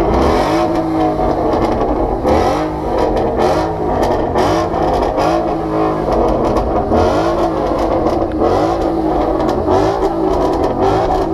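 A sports car's engine revving repeatedly and loudly, its pitch rising and falling in a steady rhythm about every three quarters of a second, with sharp crackles scattered through it.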